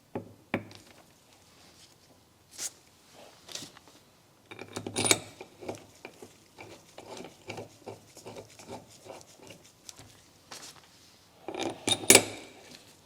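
Metal clinks and knocks of brake caliper halves, bolts and hand tools being handled and fitted together, irregular throughout, with two louder clattering bursts about five seconds in and near the end.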